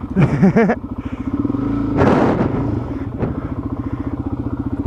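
Dual-sport motorcycle engine idling with a steady, even beat. A brief rushing noise comes about two seconds in, and a single sharp knock shortly after.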